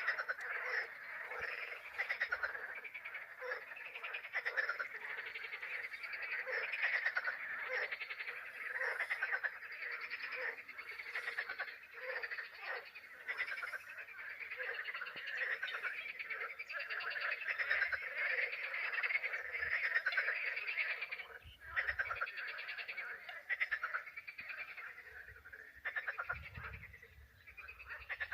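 A dense chorus of frogs croaking, many overlapping pulsed calls without a break, with a low rumble coming in near the end.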